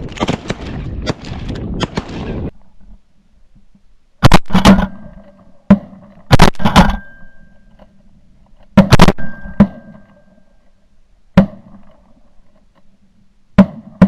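Geese honking loudly for the first two seconds or so. Then a volley of about ten shotgun shots from several hunters firing at the birds, spread over some ten seconds, some in quick pairs.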